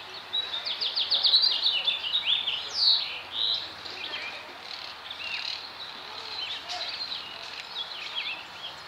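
Birds chirping and calling, busiest and loudest in the first three seconds, with a quick run of high notes about half a second in and scattered chirps after.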